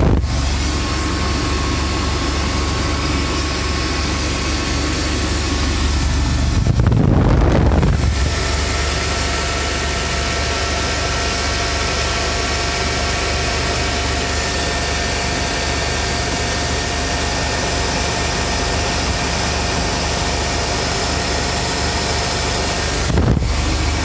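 Fuel-injected 350 small-block V8 idling steadily, heard close in the open engine bay. It runs after the chewed injector wiring was spliced, which cures the no-start.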